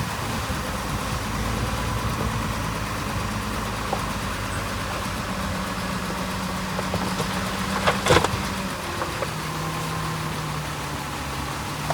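Heavy diesel engine of earthmoving machinery running steadily, with a single sharp knock about eight seconds in; the engine note steps slightly lower near the end.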